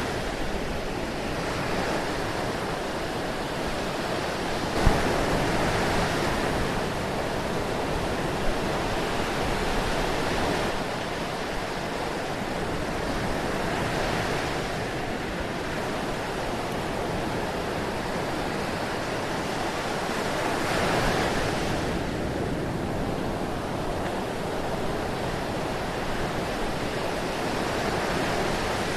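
Ocean surf: a steady wash of breaking waves that swells and eases every few seconds, with a brief sharp click about five seconds in.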